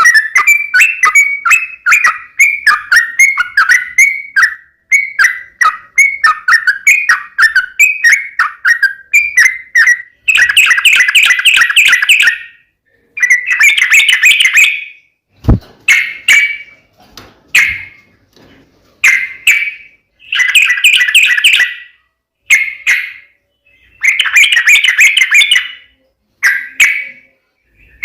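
Yellow-vented bulbul (trucukan) singing loudly: first a fast run of short chirping notes, then from about ten seconds in, bubbly warbled phrases of a second or two with short pauses between. A single low knock falls about halfway through.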